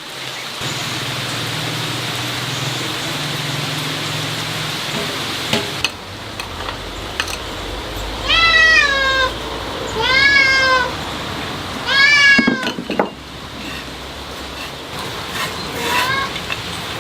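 Domestic cat meowing: three drawn-out meows about a second long each, rising then falling in pitch, about two seconds apart, and a shorter, fainter one near the end. A steady hiss fills the first five seconds.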